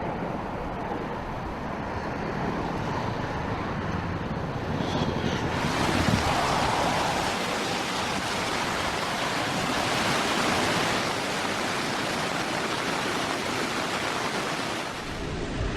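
Steady rushing noise of storm wind and water from typhoon weather, with no clear tones or beats. About five seconds in it grows fuller and hissier.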